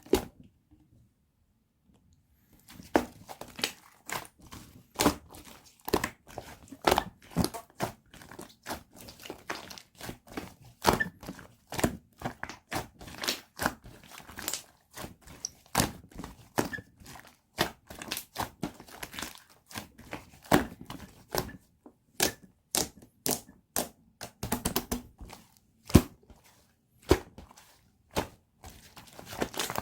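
Soft clay slime being pressed and kneaded by hand, giving an irregular run of sticky clicks, pops and small tearing sounds, several a second, after a lone click and a short pause.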